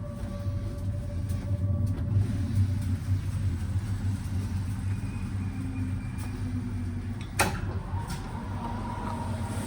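Sleeper-car passenger train running, heard inside the compartment: a steady low rumble, with one sharp click about seven seconds in.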